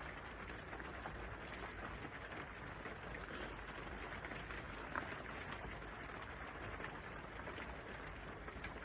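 Steady rain falling, an even hiss with scattered drop ticks, and one small click about five seconds in.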